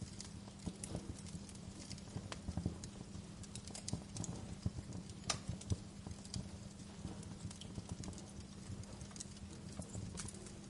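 Wood fire crackling, with irregular pops and snaps over a steady low hum.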